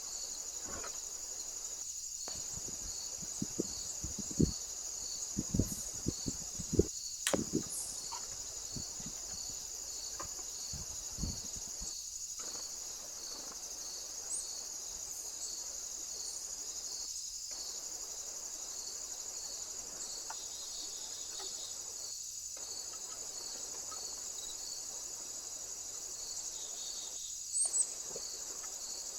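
Steady chorus of crickets trilling high, with a regular pulsing chirp beneath it. A scatter of short low knocks and bumps comes through in the first half and twice more near the end.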